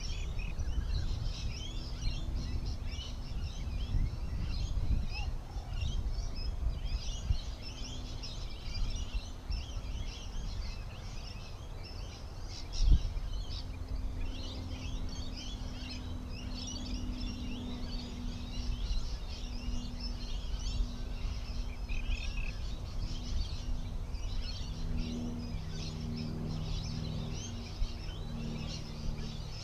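Many birds chirping and calling continuously over the low, steady hum of an engine running at the work site. The engine's note gets clearer in the last few seconds, and there is a single knock about 13 seconds in.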